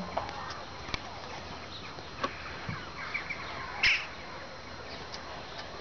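Outdoor ambience with small birds chirping and a few scattered clicks, and one brief, sharper high sound just before four seconds in.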